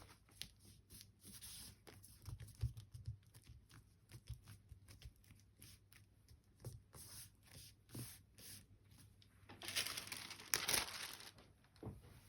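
Craft materials being handled on a table: scattered light taps and soft rustles. About ten seconds in, there is a louder crinkling rustle that lasts a second or two.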